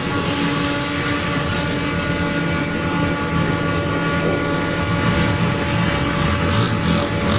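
An engine running steadily, a constant mechanical drone with a noisy rush over it.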